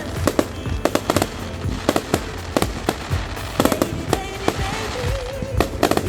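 Fireworks going off, many sharp bangs in quick succession, over background music.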